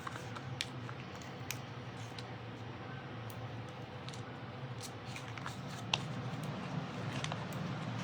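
Small foam adhesive dimensionals being handled and picked off their sheet: scattered light clicks and ticks, one sharper about six seconds in, over a steady low hum.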